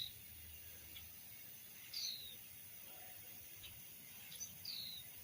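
Faint bird calls: three short high chirps, each sliding downward in pitch, a couple of seconds apart, over a low background hiss.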